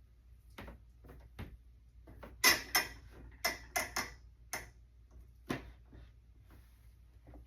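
Irregular clicks and clacks from a sewing machine being handled. A quick run of sharper clicks comes in the middle and one more follows a second later.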